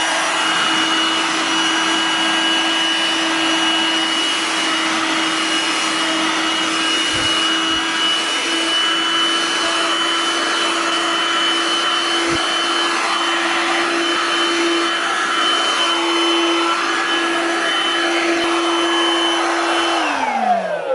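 VAX Gator 10.8 V cordless handheld vacuum running steadily, a constant motor whine over a rush of air, as it sucks talcum powder off a carpet. About twenty seconds in it is switched off and the whine falls away as the motor spins down.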